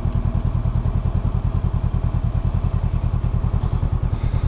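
A 2022 Honda CB500X's 471 cc parallel-twin engine idling with a steady, even pulse.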